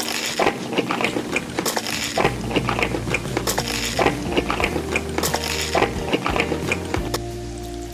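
Eating sounds: repeated crisp bites and crunches of food, many in quick succession.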